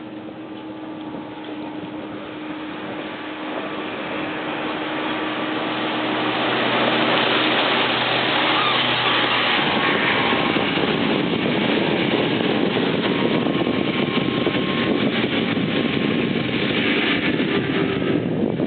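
A motorboat's engine hum, growing louder over the first several seconds, then buried about halfway through under heavy rushing wind and water noise.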